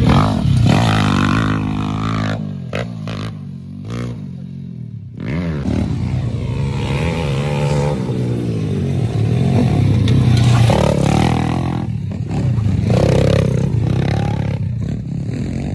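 Dirt bike engine revving up and down as it is ridden, the throttle backing off for a few seconds about two seconds in before it picks up again, with some clatter and scraping.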